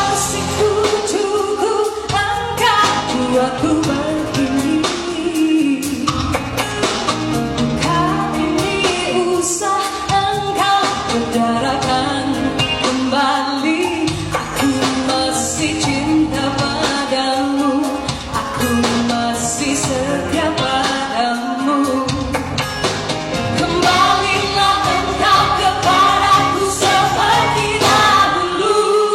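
A woman singing a Malay pop ballad with full band accompaniment, her melody gliding and held over steady drums and backing instruments.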